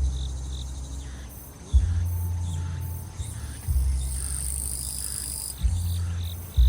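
Summer grass insects chirping and trilling without pause, over a deep bass note from nearby music that starts with a thump about every two seconds.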